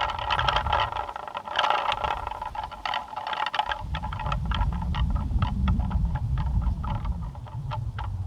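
Plastic pinwheels spinning in a strong wind: a whirring hum that fades out about three seconds in, with quick clicking rattles all through. Gusts buffet the microphone as a low rumble, which drops away about a second in and picks up again after about four seconds.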